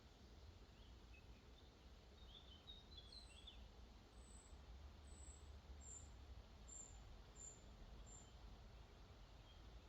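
Faint birdsong: a few scattered chirps, then a series of about seven short, very high notes from about three seconds in, over a faint steady hiss of flowing water.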